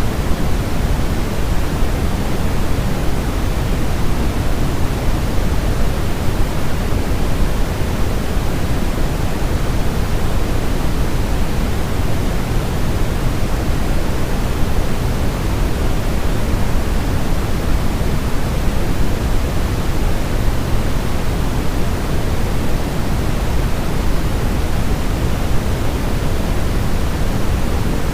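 Steady, unchanging white noise made for baby sleep, heavier in the low end with a softer hiss above.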